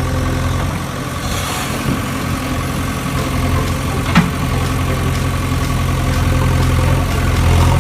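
Vehicle engine idling with a steady low hum, and a single sharp click a little past four seconds in.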